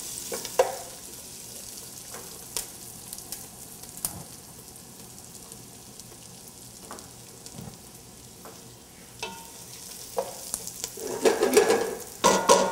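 Rice and chopped onion sizzling in olive oil in a stainless steel pot while a wooden spoon stirs them: the rice toasting at the start of a risotto. The spoon knocks against the pot now and then, and near the end the stirring grows louder with scraping and clatter.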